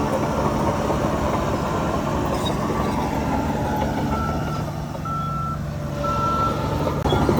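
A heavy machine's back-up alarm beeping about once a second, clearest in the second half, over the steady running of a heavy diesel engine.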